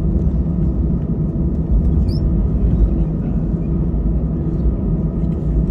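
Steady rumble of an Airbus A320 heard from inside the cabin, its engines running with a low, even hum.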